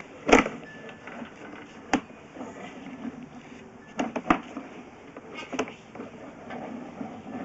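A few sharp clicks and knocks from equipment being handled. The loudest comes about a third of a second in, with others near 2, 4 and 5.5 seconds, over a faint steady background.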